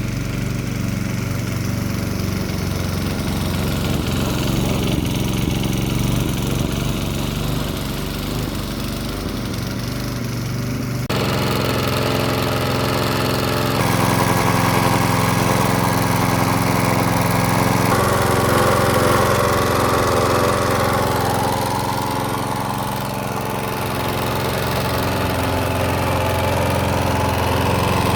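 Briggs & Stratton single-cylinder petrol engine of a Mountfield Empress 16 rotary lawnmower running steadily under load while mowing, held below full throttle, which the owner says it won't take. The engine note shifts abruptly about eleven seconds in and again a few seconds later.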